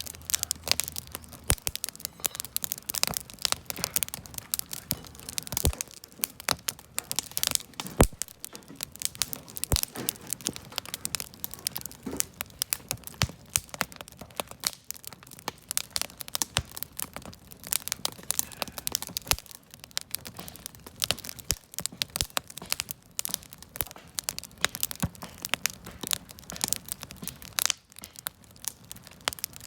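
Wood campfire crackling, with dense irregular pops and snaps of burning wood and a few louder cracks.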